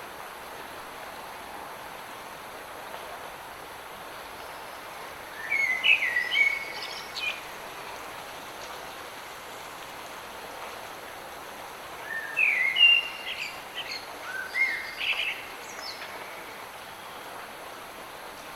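Steady light rain with a songbird singing short, quick phrases twice, about six seconds in and again about twelve seconds in.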